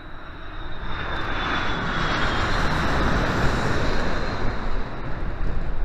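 Airbus A330-200 airliner's jet engines passing, a loud roar that swells over the first two seconds and then holds, with a high whine falling slowly in pitch.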